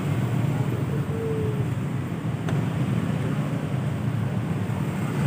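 Steady motor-vehicle and road noise, a continuous low rumble with wind buffeting the microphone.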